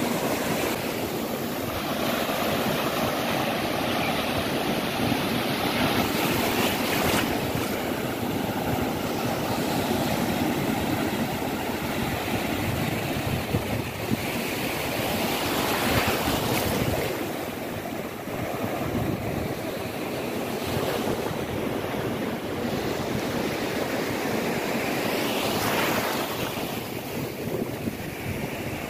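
Ocean surf: waves breaking and washing up the beach, swelling three times about every nine to ten seconds.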